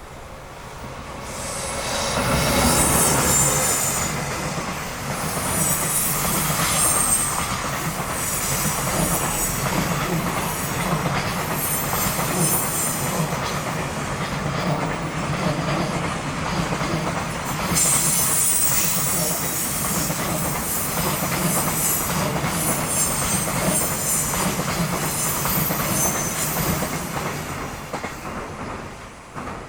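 A freight train of container flatcars behind an EF210 electric locomotive, running downhill on a steep grade under dynamic braking, passes close by: a steady rolling rumble with wheels squealing in repeated shrill bursts and some rail clicks. It swells about two seconds in and fades near the end.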